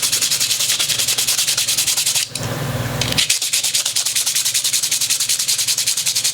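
Small X-Acto craft knife blade being rubbed clean: loud, rapid back-and-forth scraping strokes very close to the microphone, with a brief pause a little over two seconds in.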